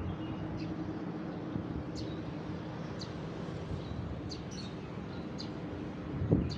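Small birds chirping in short, high calls, about six or seven of them, over a steady low rumble of road traffic.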